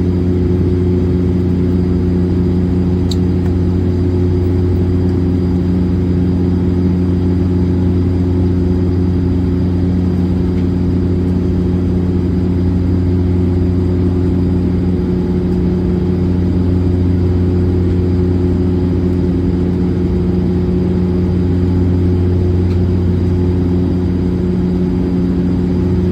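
Steady cabin drone of a De Havilland Dash 8-400's turboprop engines and propellers in flight: a constant low hum with several even tones in it.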